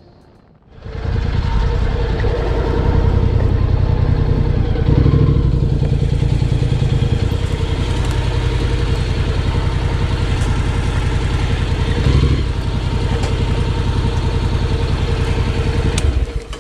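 Honda NC750X parallel-twin motorcycle engine running at low revs with a couple of brief swells, then stopping abruptly near the end.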